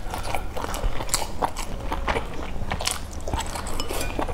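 Close-up chewing of a mouthful of boiled dumplings dipped in chili-oil sauce, heard as many short, irregular wet mouth clicks.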